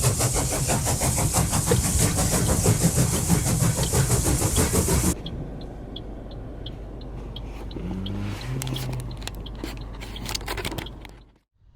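Car on the road: loud road and wind noise with a fast flutter, cut off abruptly about five seconds in. Then a quieter cabin with a run of short, regular ticks.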